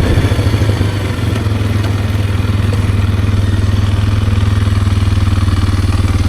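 Kawasaki KLX230R's air-cooled single-cylinder four-stroke engine idling steadily, dropping back to idle from higher revs right at the start.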